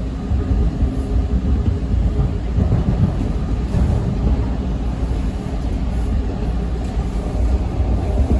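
TTC T1 subway train running on Line 2, a steady low rumble with a faint motor hum.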